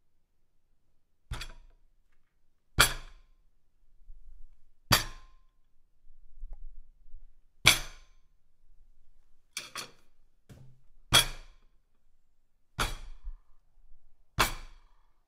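A series of separate sharp impacts, about nine hits spaced one to three seconds apart, each dying away quickly, two of them in quick succession a little under ten seconds in.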